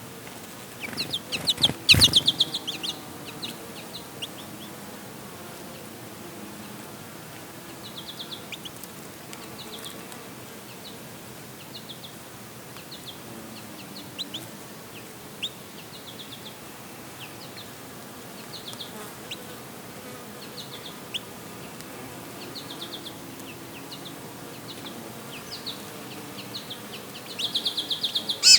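Goldfinches twittering in short, rapid chirping trills every few seconds, with louder bursts of chirps near the start and again near the end. Bees hum faintly underneath.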